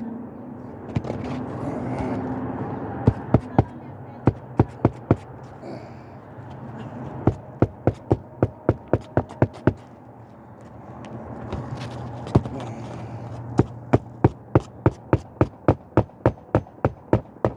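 Hammer driving roofing nails through shingles on a roof, in several runs of quick, sharp strikes, about three or four a second, with short pauses between runs.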